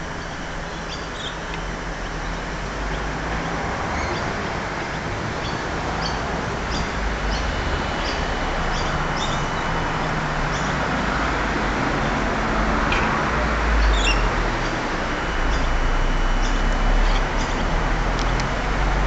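Small birds chirping in short, scattered high calls over a steady outdoor hiss, with a low rumble that swells in the second half.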